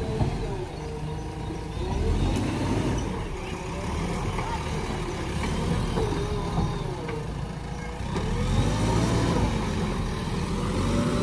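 A JCB backhoe loader's diesel engine running under working load, its pitch rising and falling several times as the machine works. It grows louder about two seconds in and again near the end.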